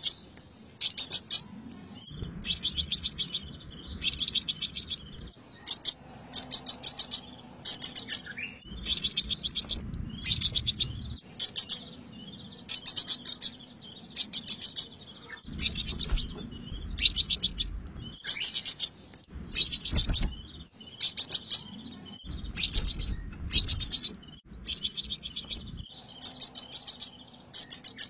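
Sunbird calling in quick, high, rapid-fire chipping trills, phrase after phrase with short gaps between them. This is a lure call for trapping sunbirds.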